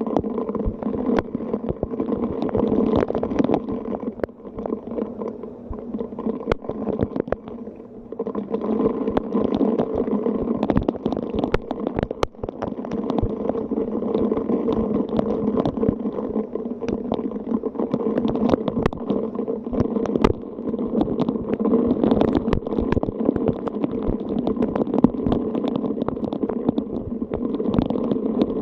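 Rain and gusting wind: a steady rushing noise that swells and eases, with a dense scatter of sharp ticks from drops striking.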